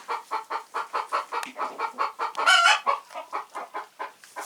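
Chicken clucking in quick short notes, about six a second, with one louder call about two and a half seconds in.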